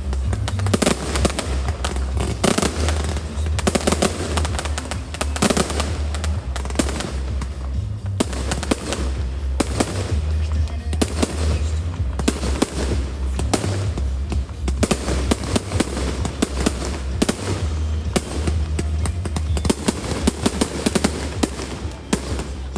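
Fireworks going off in quick succession, sharp bangs and crackling, over music with a heavy bass line.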